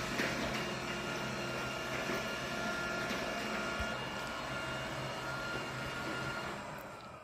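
Roomba robot vacuum running, a steady whine and hum from its vacuum and brush motors. Near the end the motors wind down, the whine falling in pitch as the level drops.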